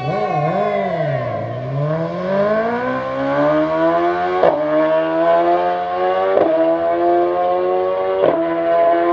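A vehicle engine blips its revs twice, drops in pitch as it takes up the load and pulls away, then accelerates hard with steadily rising pitch. The acceleration is broken briefly three times, about two seconds apart, at the gear changes.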